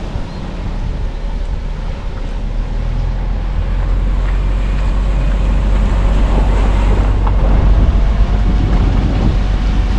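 A car driving along a road: a steady low rumble of road and engine noise that gradually gets louder. A faint steady whine joins in during the second half.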